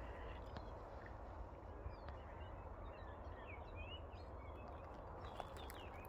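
Small birds chirping and twittering in the trees in short, quick calls, busiest about halfway through and again near the end, over a faint low rumble.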